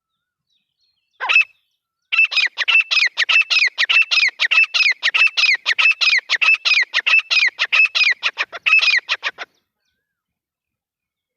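Grey francolin calling: a single short note, then a fast, even run of sharp repeated notes, about four to five a second, each falling in pitch, that goes on for about seven seconds and then stops.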